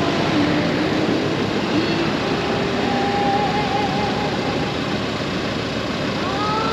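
Steady wind and road noise from a moving Honda GoldWing DCT motorcycle, with its flat-six engine running underneath; faint wavering tones drift through the noise about three seconds in.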